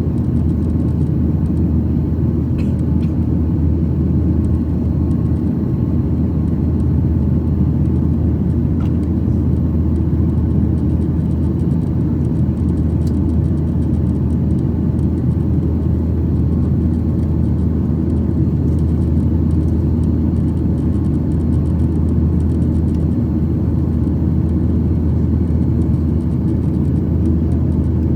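Steady low drone of a Boeing 737-800's CFM56-7B engines heard inside the passenger cabin, holding an even level throughout.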